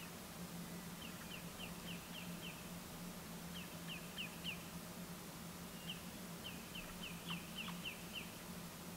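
Faint bird song: three short phrases of quick, high, downward-slurred chirps, four to six notes each, over a steady low hum.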